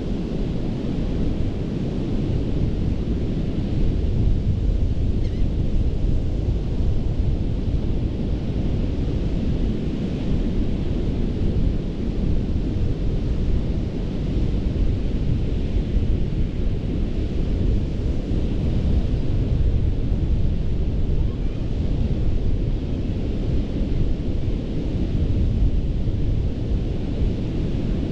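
Ocean surf washing onto a sandy beach: a steady low rumble with a hiss of waves that swells and eases every few seconds. Wind is buffeting the microphone.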